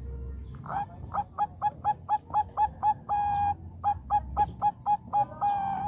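Zebra dove of the Bangkok type singing: two runs of quick staccato coos, about four a second, each run ending in a longer held note.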